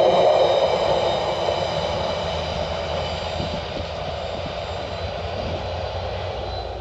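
Freight ore train rolling away and fading. A high metallic ringing and the mid-range rolling noise die away over the first few seconds, leaving a low rumble that keeps getting quieter.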